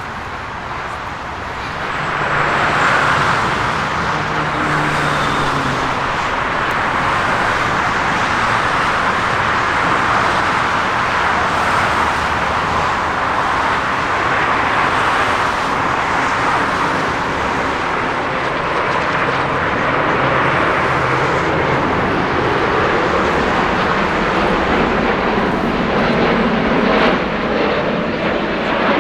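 Jet airliner engines: a loud, steady rushing noise that swells about two seconds in and holds.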